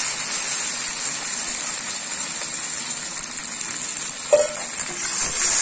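Sliced onions and chopped tomatoes sizzling steadily in hot oil in a black iron kadai, just tipped in to fry. A single short knock about four seconds in.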